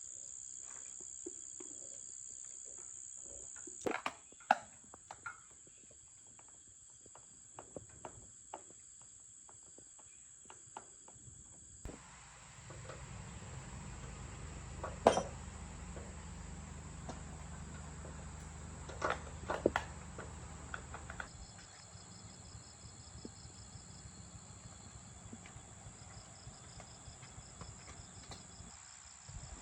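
Insects chirring steadily on one high note, with scattered sharp clicks and knocks, the loudest about four, fifteen and twenty seconds in. A low hum joins about twelve seconds in and drops away about twenty-one seconds in.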